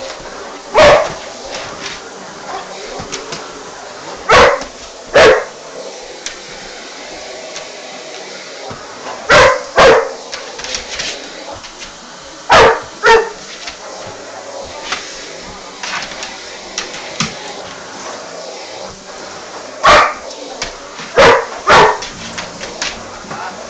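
Bouvier des Flandres dog barking at a vacuum cleaner: about ten loud, deep single barks, often in quick pairs, several seconds apart, over a steady background noise.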